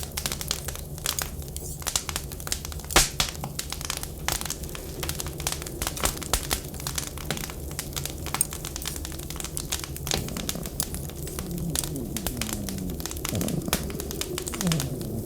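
Wood fire crackling with dense, irregular pops and snaps over a steady low rumble. From about ten seconds in, low wavering tones slide up and down beneath the crackle.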